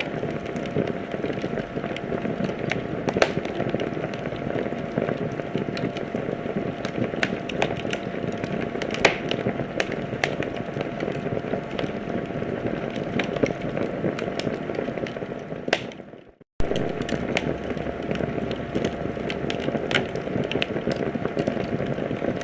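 Wood fire burning in a fireplace: a steady rushing hiss with frequent irregular crackles and sharp pops. About sixteen seconds in, the sound fades to silence for half a second and then cuts back in suddenly.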